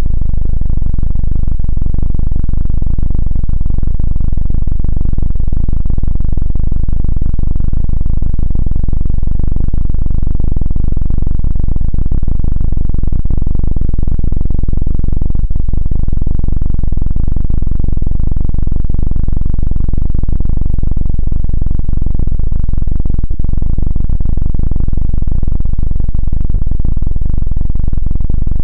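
Loud, steady low rumble of helicopter rotor and engine sound, unbroken and without any clear beat.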